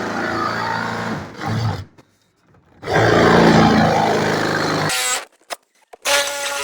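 Bosch rotary hammer drilling into a wall in short runs: it stops abruptly about two seconds in, starts again louder a second later and stops near five seconds, then runs more steadily with a hum near the end.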